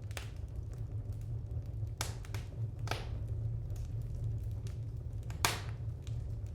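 Wood fire in a fireplace crackling, with a few sharp pops, the loudest about five and a half seconds in, over a steady low rumble.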